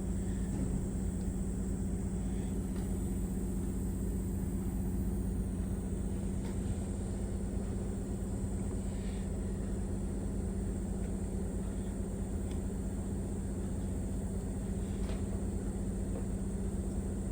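A steady low mechanical hum, as of a motor or fan running, with a few faint light taps.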